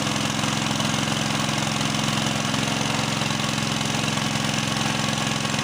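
Small engine-driven water pump running steadily at an even, held throttle, pushing water down the drill pipe to flush the borehole.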